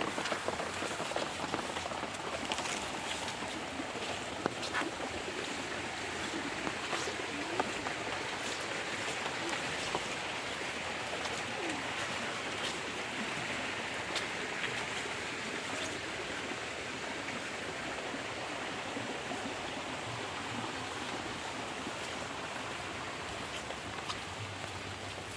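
Heavy rain falling: a steady hiss with scattered sharp drop ticks.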